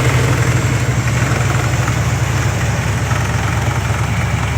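1970 Oldsmobile Cutlass Supreme's 350 V8 idling steadily. It runs not quite smoothly on old gasoline.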